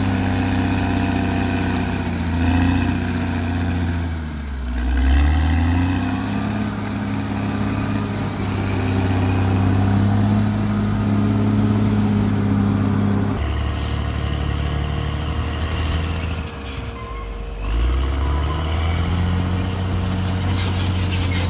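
Bulldozer's diesel engine running hard, its pitch sagging and then climbing back up twice, a few seconds in and again near the end.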